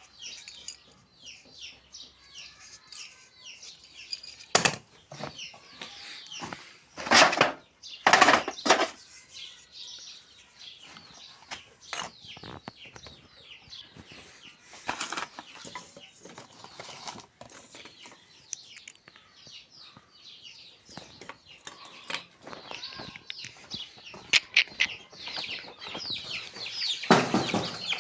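Birds chirping steadily in the background, with a few loud sharp knocks or clicks, once near 5 seconds in, a cluster around 7 to 9 seconds, and again near the end.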